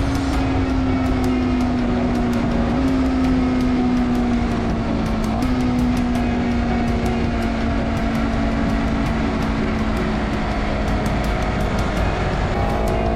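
Honda CBR250RR parallel-twin engine through an Akrapovic slip-on exhaust, running at a steady high note that sags slowly and steps up twice in the first half. A higher, rising engine note comes in near the end.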